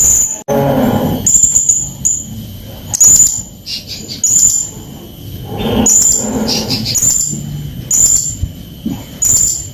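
Blue-crowned hanging parrot (serindit) calling loudly: short, sharp, very high chirps repeated about once a second, with a few quicker notes slipping in between.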